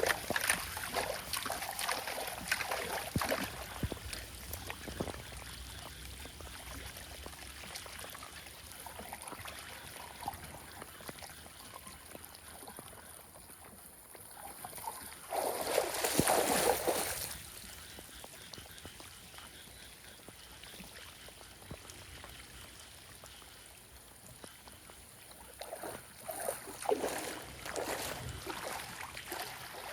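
Floodwater running and trickling, with uneven splashing; the loudest splash comes about halfway through.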